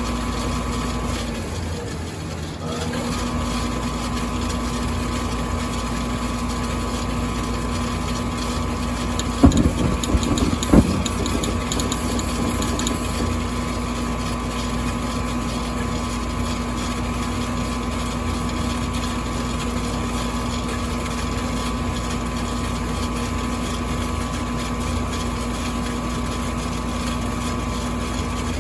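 Furnace running with a steady mechanical hum that sags in pitch and comes back up near the start. About ten seconds in, a few sharp clicks sound over the hum: the clicking problem the furnace is showing.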